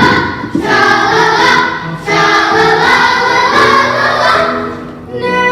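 Children's choir singing a song together, many voices at once, with a short break for breath about two seconds in.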